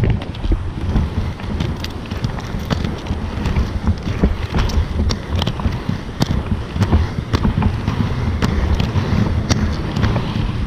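Inline skates rolling on pavement, a steady rumble of the wheels with wind on the microphone, and many sharp irregular clanks from the Powerslide Megacruiser frames: the frame bolts have worked loose.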